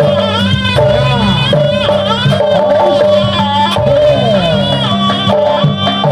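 Jaranan buto music: a loud traditional Javanese ensemble playing a busy, steady rhythm under a melody that slides up and down between held notes.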